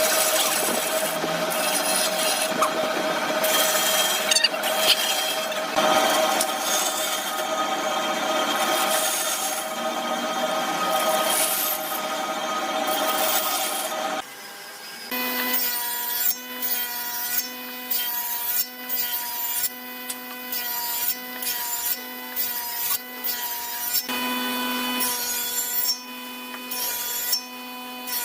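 Wood being cut with a tool: one long continuous cut for about the first half, then a series of short, regular strokes about half a second to a second long, each with a steady hum-like tone.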